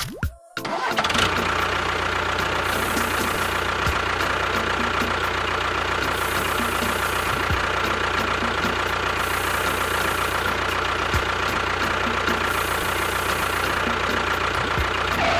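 A motor starting up about a second in and running steadily with an even hum and a constant high whine, then stopping near the end.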